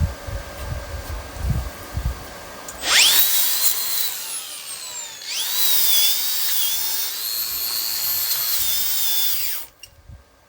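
A grinder spinning a wire wheel to clean a fresh weld, in two runs: each time it spins up with a quickly rising whine, holds a steady high pitch while brushing the metal, and then shuts off. Low knocks of handling come before the first start.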